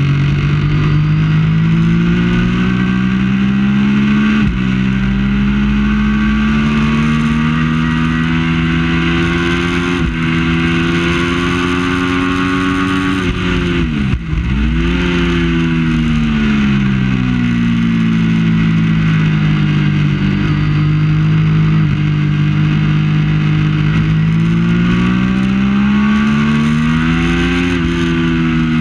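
Triumph Daytona 675 three-cylinder engine at racing speed, its pitch climbing and falling repeatedly as the gears change and the throttle opens and closes. About halfway through the revs drop sharply for a moment, then climb again.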